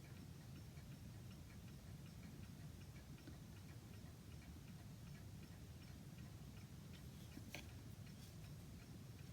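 Faint, steady ticking of a mechanical clock over quiet room hum, with a sharper click about seven and a half seconds in and another soon after.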